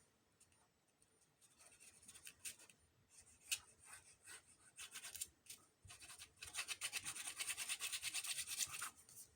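Light handling rustles and taps, then from about six seconds in a quick, scratchy back-and-forth rubbing on paper, as when glue is spread or a paper piece is pressed down.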